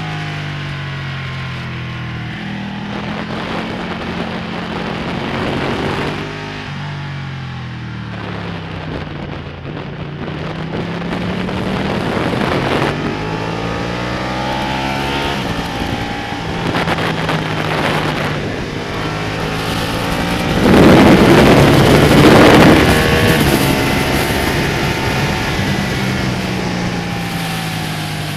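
Ducati Panigale's L-twin engine at racing speed: its note climbs through the gears and drops back several times as the bike accelerates and slows for corners. About two-thirds of the way in, a louder rush of noise swells over it for a couple of seconds.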